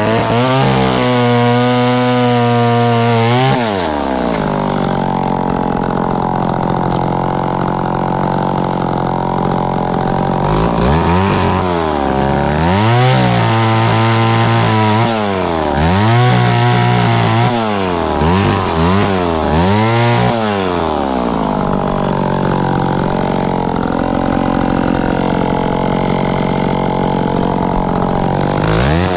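Two-stroke chainsaw cutting wood at high revs. Its pitch dips and recovers again and again as the chain loads up in the cut, then holds steadier for several seconds near the end.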